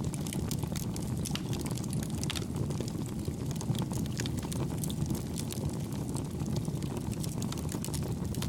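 Wood campfire burning steadily: a low, even rumble of flames with many small, soft crackles and pops.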